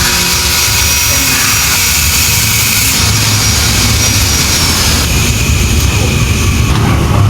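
Loud steady mechanical noise: a rushing hiss over a low engine-like hum. The hiss fades about five seconds in while the hum grows stronger.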